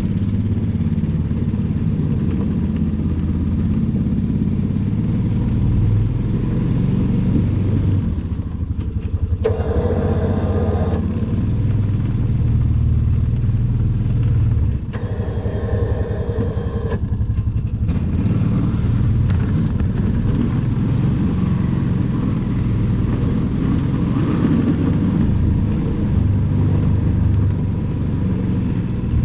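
An engine running steadily throughout, with two short bursts of higher-pitched noise on top, about ten and sixteen seconds in.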